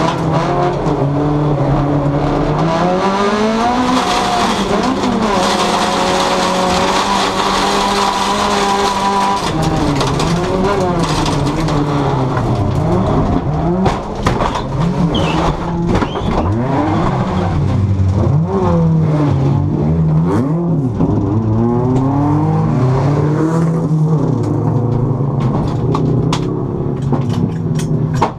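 Honda folkrace car's engine heard from inside its stripped, caged cabin, revving hard in a race: the pitch climbs and holds high for several seconds, then rises and falls again and again as it shifts and lifts through corners. Sharp clicks and knocks rattle over it through the second half.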